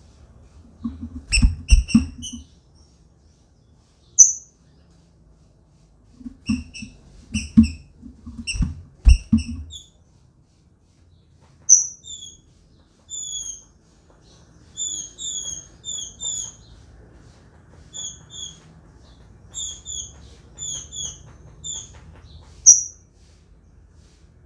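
Female green-winged saltator (trinca-ferro) giving short, sharp high call notes. In the first ten seconds they come in quick clusters mixed with low thumps. From about twelve seconds on they settle into evenly spaced pairs, with a few louder single notes between.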